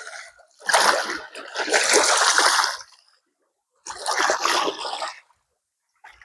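Small sea waves splashing against the shore, two surges of a couple of seconds each with short quiet gaps.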